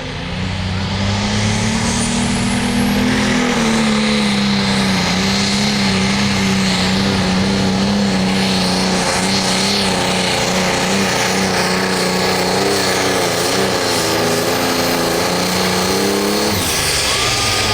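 Hot Farm class pulling tractor's diesel engine running flat out under load as it drags the sled. The pitch climbs over the first few seconds and then holds high and steady before dropping off near the end.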